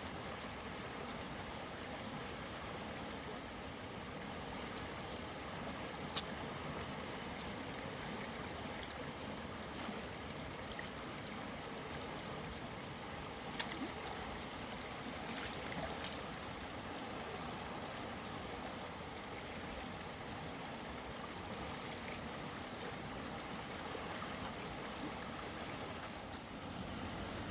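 Mountain river water flowing steadily, with two brief sharp clicks about six and thirteen seconds in.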